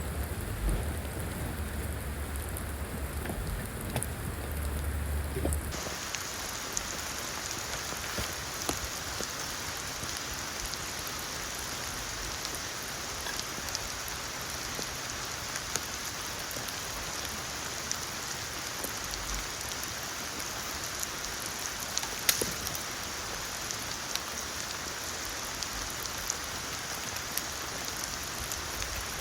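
Steady rain falling: a dense, even hiss of drops. About six seconds in, the sound changes abruptly: a low rumble underneath stops and the rain hiss becomes brighter.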